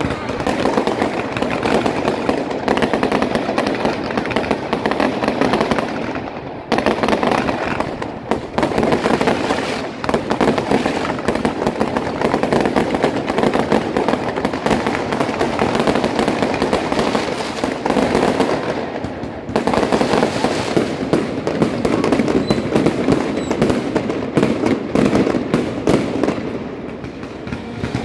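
Fireworks display: aerial shells bursting overhead in a rapid, continuous barrage of bangs and dense crackling, with a few brief lulls.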